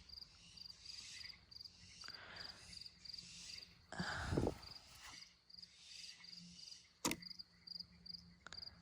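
Faint cricket chirping steadily in the background, about two to three chirps a second. A soft rustle comes about four seconds in and a sharp click about seven seconds in.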